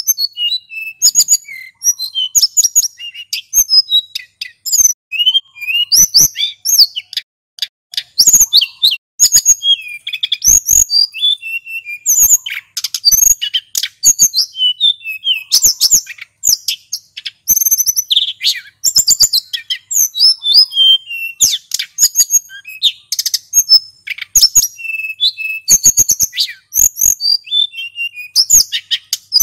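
A male sulingan gunung songbird singing continuously in rapid, varied phrases of sweeping whistles and chirps, with only short pauses between phrases. This is the full, rolling song (ngeroll) used as a lure and as a model for other birds to learn.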